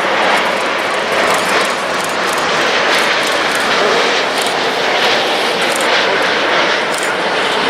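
Jet airliner's engines running loud and steady as the aircraft passes the runway, a dense, even rush of noise with no break.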